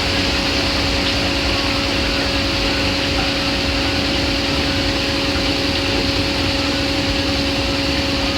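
AQUA AQW-DM12RL drum washer-dryer running, a steady motor whine over an even whirring noise, the drum held at a constant speed.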